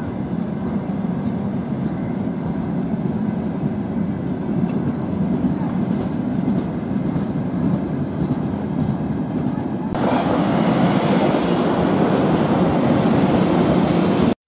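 Freight train of tank cars rolling past with a steady rumble of wheels on rails. About ten seconds in, a second train passes alongside, the ChS7-hauled passenger train, and the noise gets louder, with a thin steady high whine on top.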